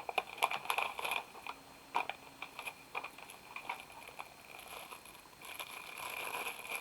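Packaging being handled and unwrapped by hand: scattered crinkles and clicks over the first few seconds, then a steadier rustling from about five seconds in.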